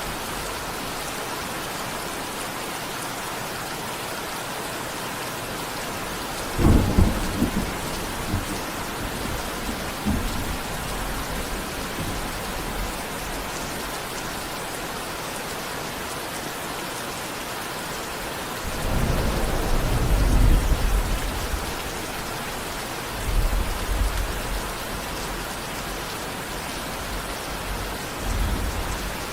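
Steady heavy rain with rolls of thunder. A sudden crack of thunder comes about seven seconds in, a longer rumble rolls around twenty seconds in, and shorter rumbles follow near the end.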